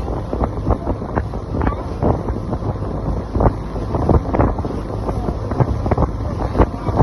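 Speedboat under way: engine and water noise, with heavy wind buffeting the microphone and frequent irregular thumps.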